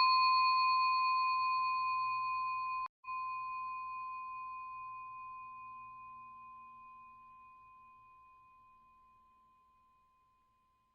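A single bell-like chime note, the last note of an outro jingle, ringing and slowly dying away, with a brief break about three seconds in.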